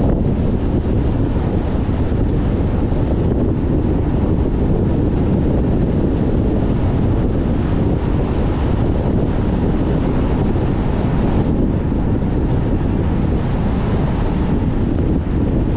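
Strong wind buffeting the microphone during a drive, a steady loud low rumble with no let-up.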